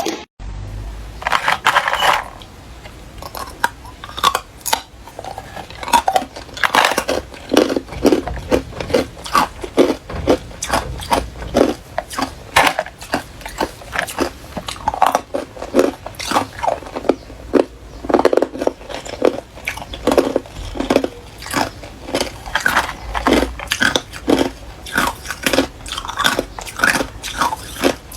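Hard ice being bitten and chewed up close, a rapid run of loud crunches and cracks, several a second.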